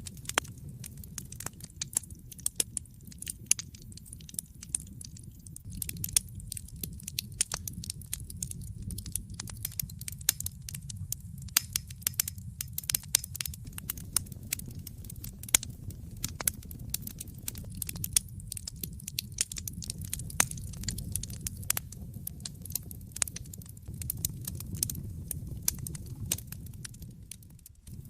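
Fire in a fireplace crackling: many irregular sharp pops and snaps over a steady low rumble of the flames.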